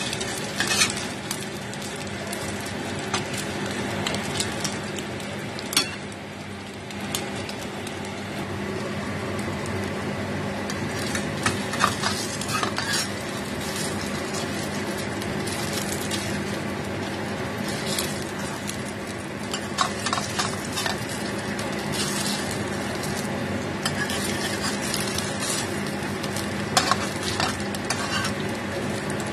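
Squid-paste-stuffed tofu and paste balls sizzling in oil in a stainless steel pan. A metal spatula scrapes and clinks against the pan every few seconds as the pieces are turned.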